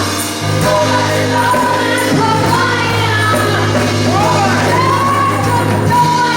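Church praise team singing gospel worship music over instrumental accompaniment, with a steady held bass note underneath.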